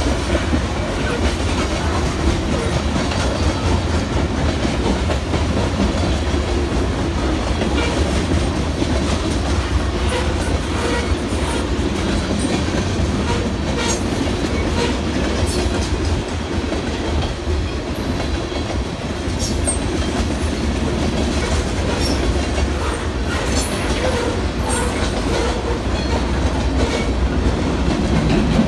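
A freight train's cars rolling steadily past on the rails: covered hoppers, then boxcars, with a continuous low rumble and the clickety-clack of wheels over rail joints. A few sharp metallic clicks stand out in the second half.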